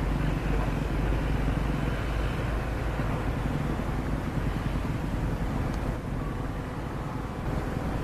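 Komatsu excavator's diesel engine running steadily under work, easing slightly about six seconds in and picking up again near the end.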